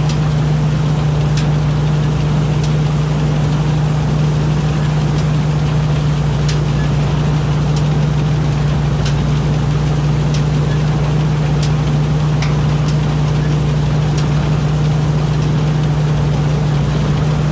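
Diesel engine of a rice combine harvester running steadily, a constant low hum with faint regular ticks over it.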